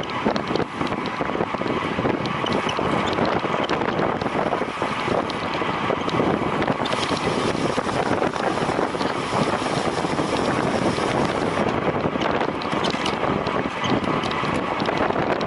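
Steady wind noise rushing over the microphone of a moving road bicycle at race speed, with the hiss growing brighter for a few seconds midway.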